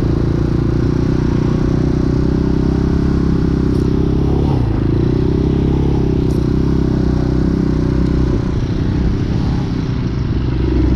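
Hawk 250 motorcycle engine idling steadily while cold on half choke, after stalling on too much choke. The engine note dips briefly about halfway through, then recovers.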